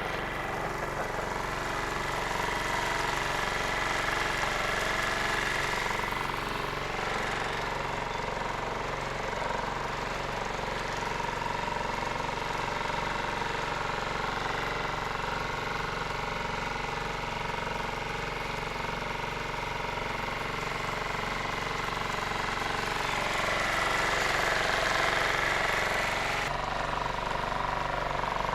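Dinghy outboard motor running steadily under way, a constant drone with a whine on top that swells a little near the end.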